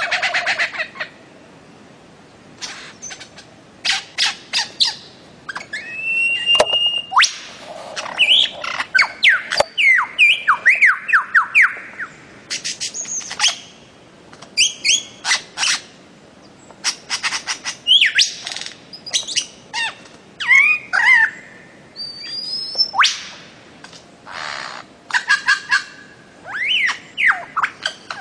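Bird-of-paradise calling: loud bursts of sharp, quick notes in rapid runs, mixed with sliding whistles and a few harsh squawking calls, separated by short pauses.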